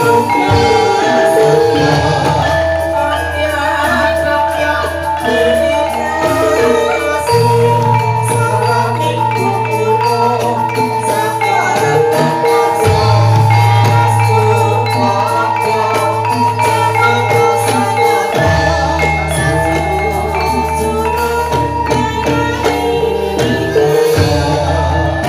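Javanese gamelan music accompanying a jathilan horse dance: struck metallophones ringing in a busy, continuous pattern over a sustained low bass that shifts pitch every five or six seconds.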